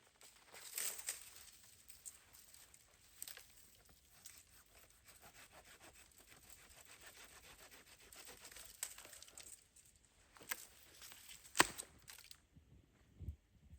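Wood being worked by hand: rough scraping and rustling with many small cracks, and one sharp crack about three-quarters of the way through, followed by a few soft low thuds.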